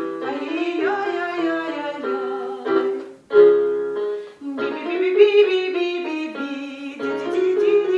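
Choir vocal warm-up on syllables: a female voice sings short, stepwise phrases to piano accompaniment, with two brief breaks between phrases.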